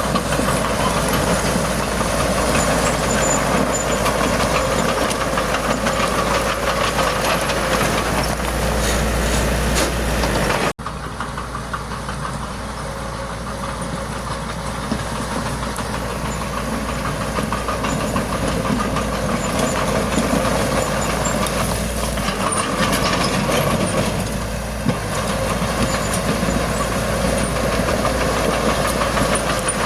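Heavy diesel earthmoving machinery running steadily with a dense engine clatter. A brief dropout about eleven seconds in, then it runs on slightly quieter.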